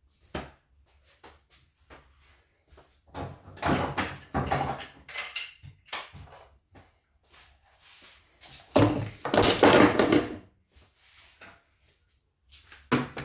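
Wooden knocks and clatter of things being handled in a small workshop. The sounds come in two busy spells, one a few seconds in and a louder one past the middle, with a few small clicks between.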